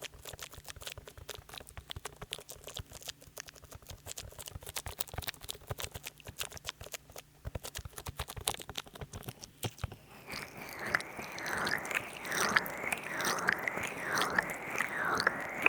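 Oil-slick hands massaging a binaural microphone, with wet, squelchy crackling from too much oil. About ten seconds in it becomes louder, rhythmic rubbing strokes about once a second.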